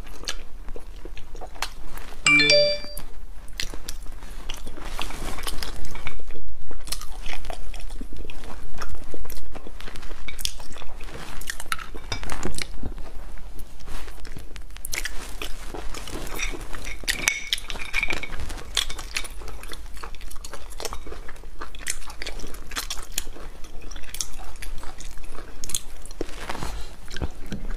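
Close-miked eating sounds of spicy sea snails: many short clicks and crunches of biting and chewing, the snail meat picked from the shells with a toothpick between mouthfuls.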